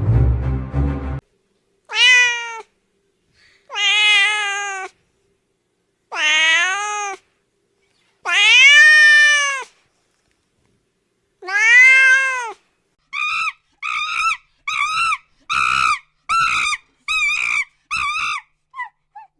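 A cat meowing: five long, drawn-out meows a couple of seconds apart, then a run of about nine short, quick mews near the end.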